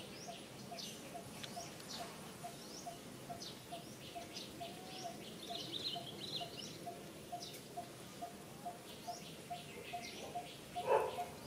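Birds chirping and trilling in woodland. Under them runs a steady series of short, evenly spaced low notes, about three a second. A louder short call comes near the end.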